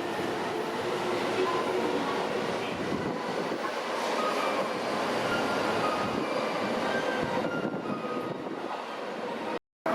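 Chiyoda Line subway train running in an underground station: a steady rumble with faint high tones over it. The sound drops out briefly near the end.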